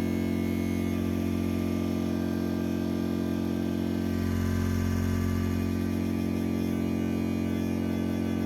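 Loudspeaker in free air, driven by a SounDigital 3000.1 Evo 4.0 amplifier under test, putting out a steady low buzzing hum. The hum swells slightly about four seconds in.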